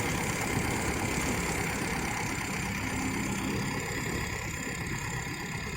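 Small carbureted motorcycle engine idling steadily, running smoothly after its carburetor was cleaned and rebuilt with a new gasket repair kit.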